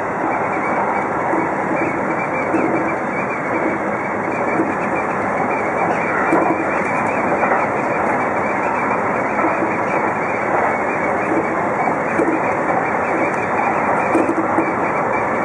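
A Seibu 2000-series electric train running at speed on straight track, heard from inside the driver's cab: a steady rumble of wheels on rails with a few faint ticks.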